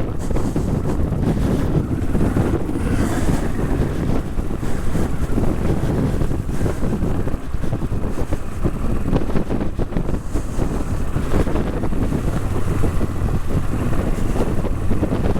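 Honda CL450 parallel-twin engine running steadily as the motorcycle rides along a trail, with wind buffeting the microphone.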